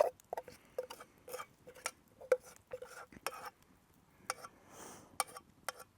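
A metal utensil clinking and scraping against cookware as food is served up. It comes as a string of irregular taps, each with a short ring after it.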